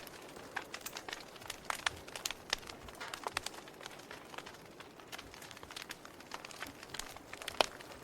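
Wood fire crackling: a soft steady hiss with irregular sharp pops and snaps, one louder pop near the end.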